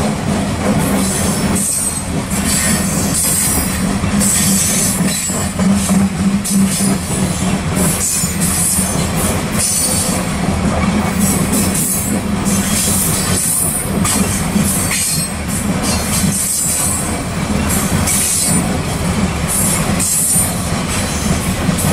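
Coal train's loaded-style hopper cars rolling past: steady noise of steel wheels on rail, broken by repeated clicks and patches of high-pitched wheel squeal.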